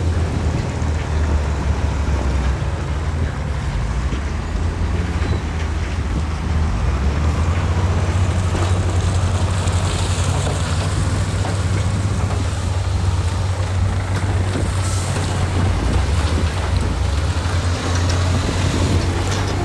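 Heavy diesel engine of earth-moving machinery running steadily, with a deep low hum and rough mechanical noise over it.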